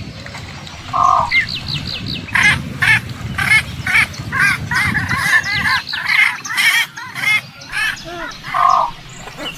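Bird calls: a run of short, arched call notes repeating about two a second, with a quick string of higher, thinner notes about a second in, over a low background rumble.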